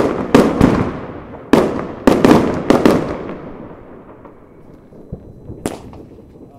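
A quick series of loud firework bangs, each with a ringing echo, stopping about three seconds in. A single fainter crack follows near the end.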